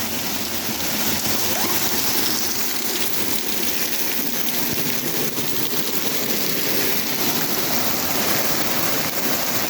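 Waterfall: falling water pouring and splashing in a steady, even rush with a strong hiss.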